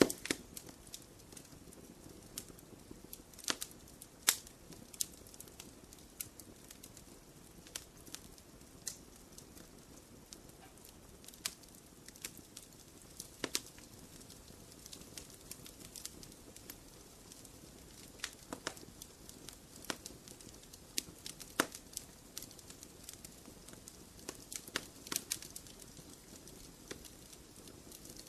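Wood fire burning in a fireplace, with a soft steady hiss and frequent sharp, irregular crackles and pops.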